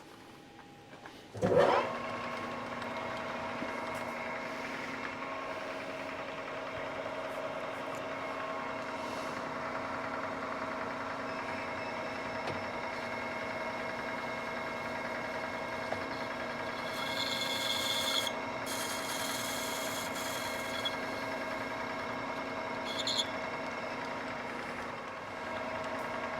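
Manual lathe starting up about a second and a half in, spinning up with a short rising whine, then running steadily with a constant hum. Between about 17 and 21 seconds, and briefly again near 23 seconds, a higher hissing noise joins it: a tool cutting a chamfer on the spinning steel plate's edge.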